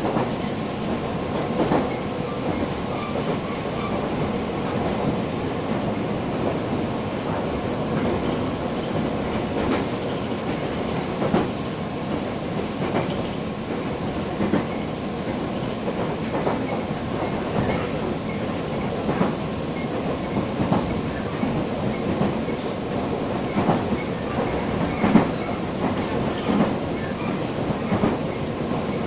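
Passenger train running, heard from inside the carriage: a steady rumble of wheels on rail with irregular clicks and knocks from the track joints.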